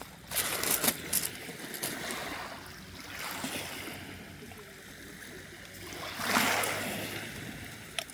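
Small sea waves washing and lapping at the shoreline, with one louder wash rising and falling away about six seconds in.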